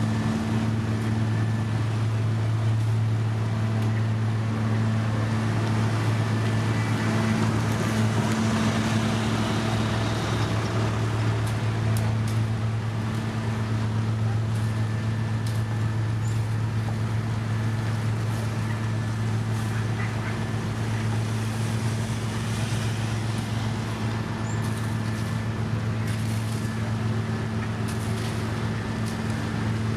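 Heavy road-paving machinery's engine running steadily at a constant, unchanging pitch, with a low hum over a noisy haze.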